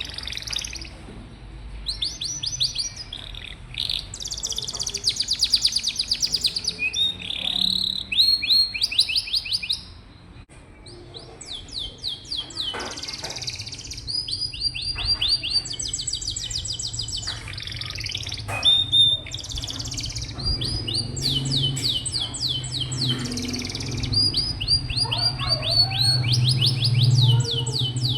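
Domestic canary singing a long song of fast trills and rolls, each phrase a rapid run of repeated notes before it switches to the next, with a short pause about ten seconds in.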